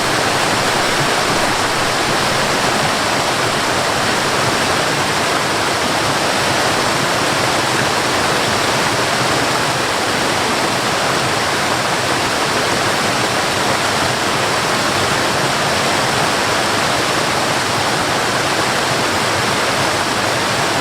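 Water rushing steadily: a loud, even hiss with no breaks or changes.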